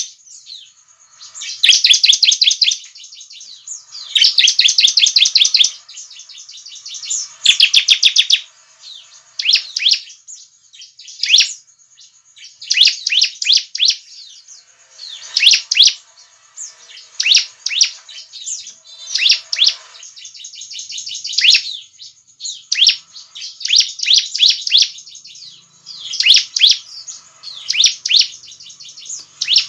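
Bar-winged prinia (ciblek) singing loudly: first three dense, rapid-fire trills about a second each, then a run of shorter, sharp chirps in quick succession.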